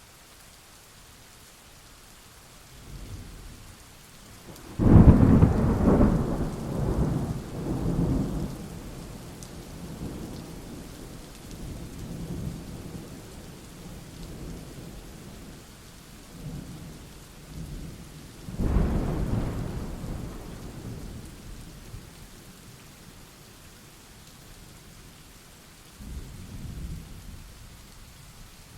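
Steady rain with thunder: a low rumble builds about three seconds in, then a loud thunderclap rolls on for several seconds, a second loud clap comes about two-thirds of the way through, and a smaller rumble follows near the end.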